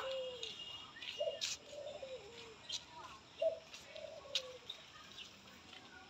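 A bird calling twice with low notes that bend and fall, the second call longer, with a few short sharp sounds in between.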